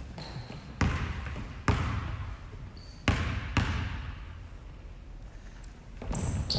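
A basketball dribbled on a gym floor: four irregularly spaced bounces, each echoing briefly in the hall.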